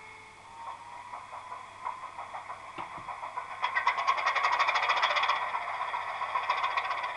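Bachmann Class 25 model locomotive's DCC sound decoder playing a Sulzer diesel engine start-up. Slow, uneven turning-over beats quicken over about three seconds, the engine catches with a loud rapid clatter, then settles into a steady idle.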